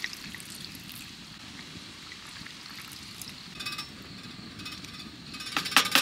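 Metal cooking utensils clinking against cookware over a low hiss: one ringing clink about two-thirds in, then a quick run of sharp metallic clinks near the end.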